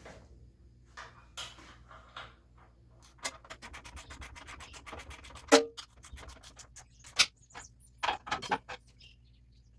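Ratchet wrench clicking as a starter mounting bolt is tightened: a fast, even run of clicks about three seconds in, then a loud metal knock and a few single clicks and short runs of clicks.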